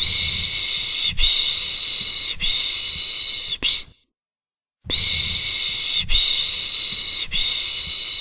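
Soothing 'shhh' shushing for a baby, repeated in a steady rhythm of shushes each a little over a second long. A pause of under a second falls about four seconds in, then the shushing resumes.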